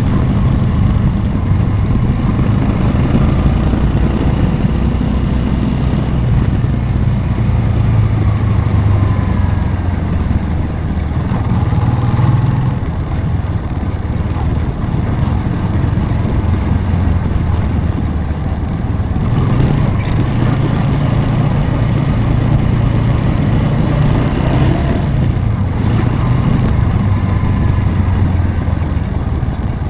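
Motorcycle engine running under way. Its note rises and falls, easing off a few times as the throttle changes.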